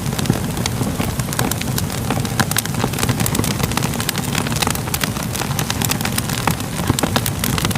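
Wood fire crackling steadily, with many quick sharp snaps and pops over a low, continuous rumble.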